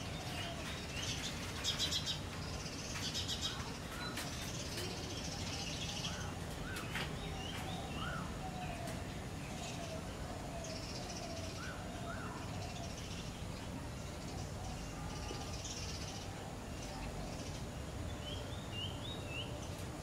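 Several birds calling and chirping: short, repeated call notes throughout, with two louder bursts of rapid, harsh pulsing calls about two and three seconds in, over a steady low background hum.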